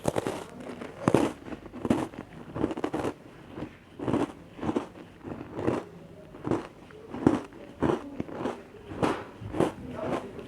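Close-up chewing of crunchy chocolate cookies, a steady run of crisp crunches at about one and a half a second.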